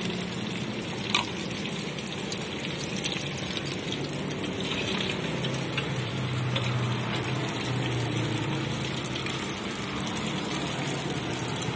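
Pempek fish cakes frying in hot oil in a wok: a steady sizzle, with a single short knock about a second in.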